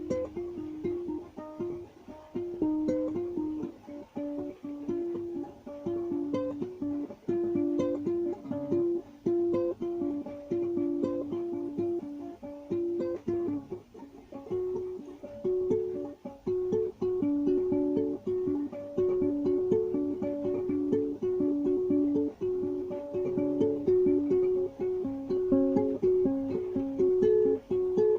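A plucked string instrument playing a melody of short, quickly picked notes, with a small room's echo.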